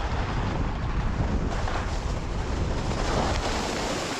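Strong wind buffeting the microphone: a steady rushing noise with a heavy low rumble.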